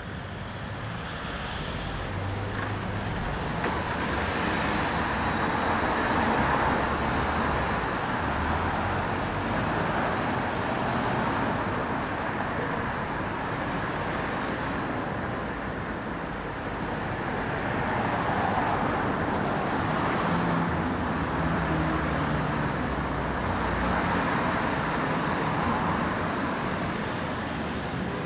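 Road traffic: cars passing along a street, a steady tyre and engine noise that swells and fades as each vehicle goes by, loudest about six seconds in and again around eighteen seconds.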